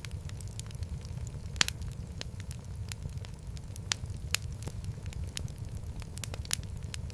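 Wood fire burning in a fireplace, a steady low rumble under frequent sharp crackles and pops, the loudest pop about a second and a half in.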